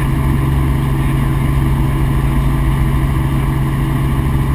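Helicopter in flight: a steady engine and rotor drone with a strong low hum.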